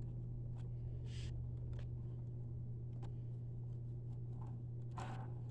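Faint clicks and a brief rustle of plastic vacuum parts being handled while the brush roll and belt are fitted into a Hoover Concept One upright, over a steady low hum.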